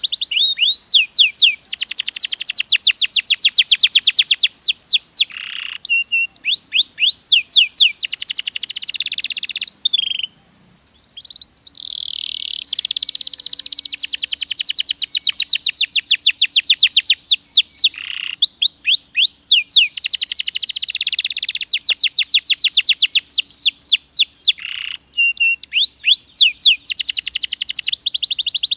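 Domestic canary singing: long, rapid trills of fast repeated notes, one run after another, with a short pause about ten seconds in.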